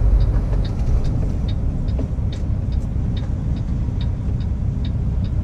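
Peterbilt semi truck's diesel engine and road noise, a steady low rumble, heard from inside the cab, with a light ticking about two to three times a second.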